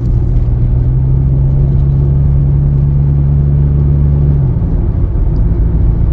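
A Honda Accord's exhaust with the muffler deleted, a loud, steady low drone at constant revs. Its tone shifts slightly about four and a half seconds in.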